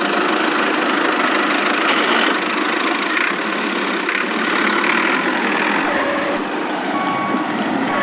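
Small motor of a DIY miniature tractor running steadily, a dense buzzing hum without deep bass.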